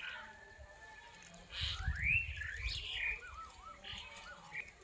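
Wild birds calling and singing: a run of arching whistled notes, rising and falling, from about a second and a half in, followed by a few quick looping notes. A low rumble sits under the loudest calls.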